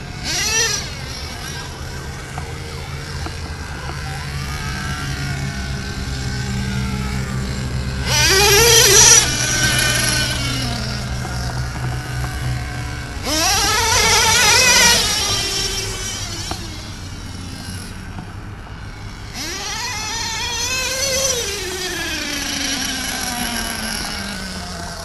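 1/8-scale RC monster truck's .21 nitro engine with a tuned pipe, running under throttle. It surges loudly three times, the pitch falling away after each surge, over a constant low drone.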